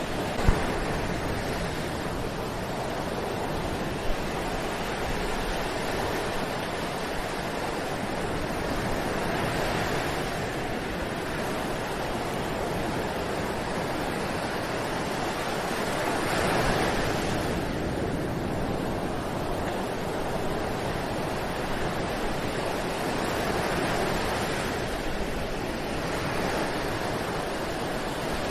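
Ocean surf: waves rolling in and washing up on a beach as a steady rush, swelling louder every several seconds. A sharp click sounds about half a second in and another about four seconds in.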